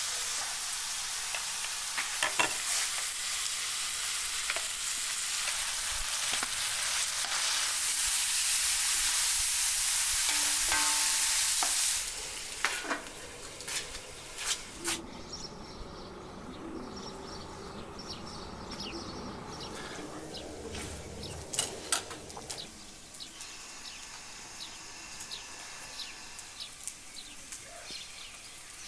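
Food sizzling in a frying pan: a steady hiss with occasional clicks of a utensil stirring, growing louder for a few seconds before it cuts off suddenly about twelve seconds in. After that come quieter scattered clicks and knocks.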